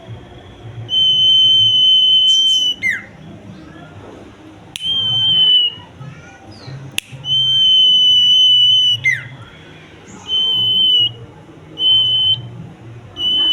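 Common iora (cipau) singing a series of long, steady, high whistled notes, about six of them with short gaps, several ending in a quick falling slur.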